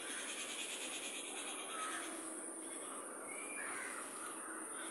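Faint bird calls over steady background hiss.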